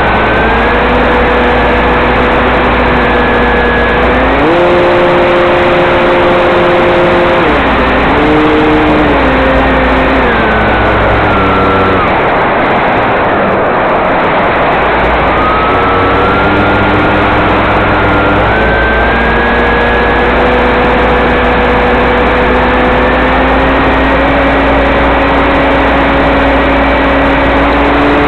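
Electric motor and propeller of a Tidewater RC floatplane, a whine that steps up and down in pitch as the throttle is changed. It fades out about halfway through, then returns and climbs slowly toward the end, over a constant loud hiss.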